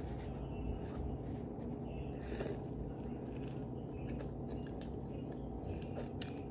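Biting into and chewing a soft chipotle chicken avocado sandwich on flatbread, with faint wet mouth clicks over a steady low background hum.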